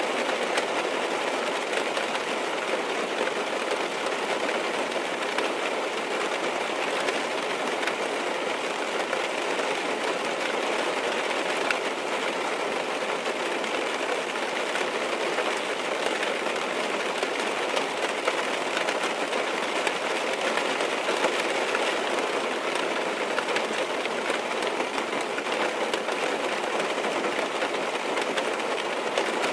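Steady rain on a car's roof and windows, heard from inside the cabin: a dense, even patter of drops with fine ticks throughout.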